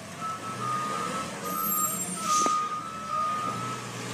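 Garbage truck reversing with its back-up alarm beeping steadily over the low engine hum. A brief sharp knock with a hiss comes about halfway through.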